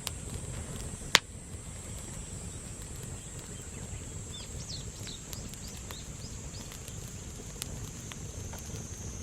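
Campfire crackling, with one sharp loud pop about a second in and scattered smaller ticks. Behind it, a steady high insect trill and a few short chirps in the middle.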